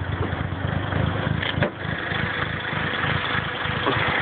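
2008 Chevy Cobalt's cammed 2.2 L Ecotec four-cylinder idling with an uneven, choppy lope from its Stage II CompCams cams, not a misfire. A single sharp click about one and a half seconds in.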